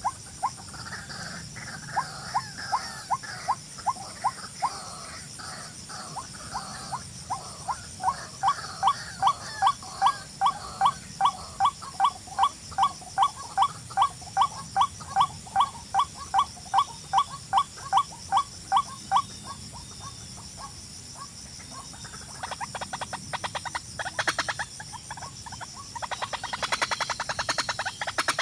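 An animal calling in a long series of short rising notes, about two or three a second, which stops shortly before a fast rattling chatter starts near the end. A steady high hiss runs underneath.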